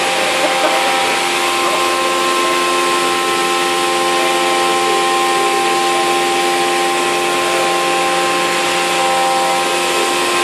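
CNC milling machine cutting 6082 aluminium with a 3-flute end mill spinning at 8,000 rpm: a steady, loud machining noise with a constant whine of several steady tones over a hiss.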